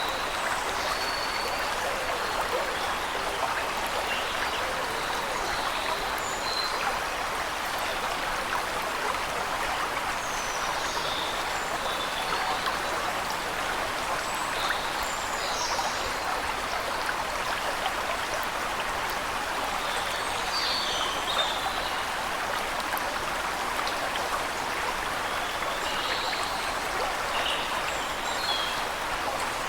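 Steady rush of a waterfall, with small birds chirping now and then above it.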